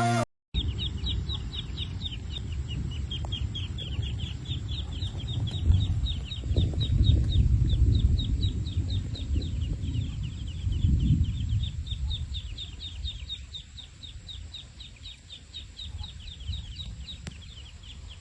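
A small bird, or chicks, peeping rapidly and steadily: a long run of short, high, falling chirps, several a second. Under it is a low rumbling noise that swells in the middle and fades toward the end.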